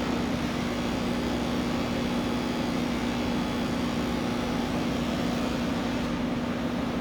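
Electric grooming clippers running with a steady, even hum, not cutting.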